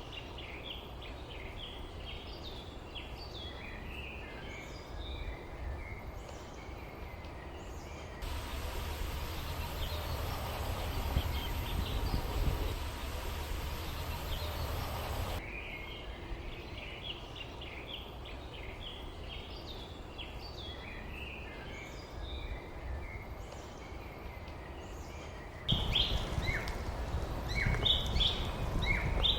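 Small birds chirping and twittering over a low background rumble. About a third of the way in, the chirps give way to a steady hiss for about seven seconds, then return, growing louder near the end.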